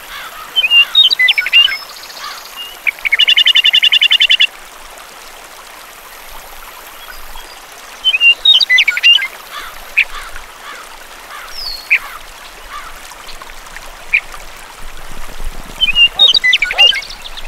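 Birds chirping and calling in short bursts, with a fast, even trill lasting about a second and a half a few seconds in, over a faint steady hiss.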